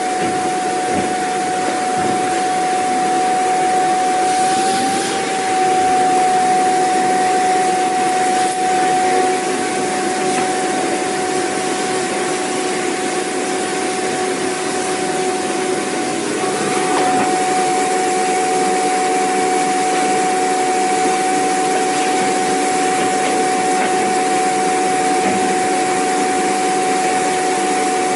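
Vacuum cleaner running steadily: a constant rush of air with a high motor whine held on one pitch.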